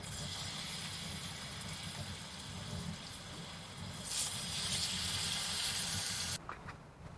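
A steady hiss that grows louder for about two seconds, then cuts off suddenly, followed by a few light clicks.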